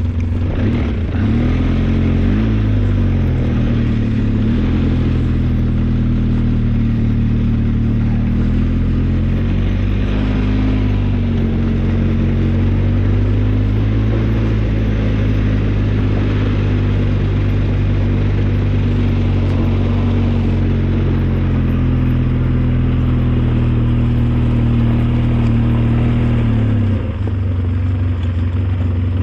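Engine of an old snowplow vehicle running steadily. Its pitch wavers a little in the first few seconds and drops about 27 seconds in.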